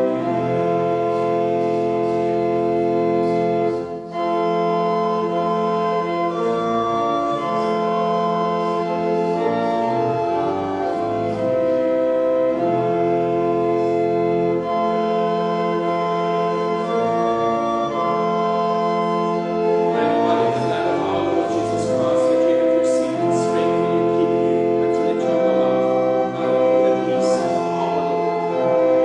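Church organ playing slow, sustained chords, the held notes changing about once a second, with a few light clicks over the last third.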